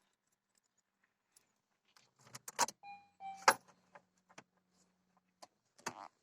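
Car keys jangling and clicking as they are handled, with two short electronic beeps about three seconds in and a sharp click just after them, the loudest sound. A faint low hum runs for a couple of seconds after the beeps.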